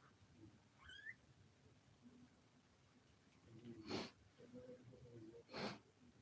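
Faint sounds from a domestic cat: a short rising call about a second in, then two short breathy bursts about a second and a half apart.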